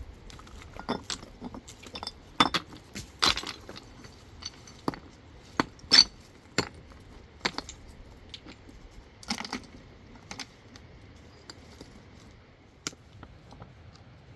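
Stones clinking and knocking against one another as they are handled and laid in a wall: a dozen or so sharp, irregular clicks. They are busiest in the first half and loudest about six seconds in, with only a few scattered ones later.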